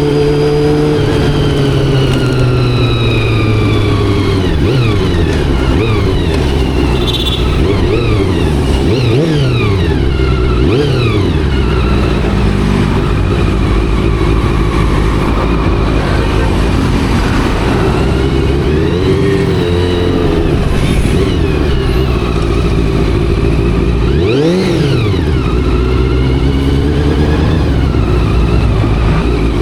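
Honda CBR400RR's carbureted inline-four engine riding through traffic, its pitch rising and falling repeatedly as the throttle opens and closes through the gears. About 24 seconds in, a quick rev climbs high and drops right back.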